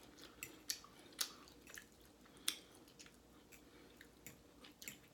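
Close-miked chewing of a mouthful of food: faint wet mouth clicks and smacks at irregular moments.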